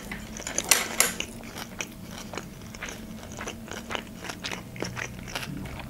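Close-up chewing of a mouthful of sushi roll: a run of short clicks and soft crunches, busiest about a second in.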